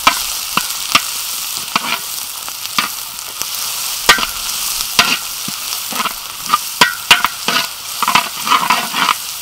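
Chopped shallots and garlic sizzling in oil in a large wok, stirred with a metal spatula that scrapes and clicks against the pan at irregular intervals, more often near the end.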